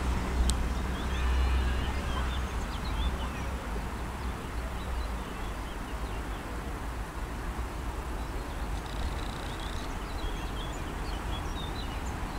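Small birds chirping, short scattered calls, over a low outdoor rumble that is strongest for the first couple of seconds and then eases.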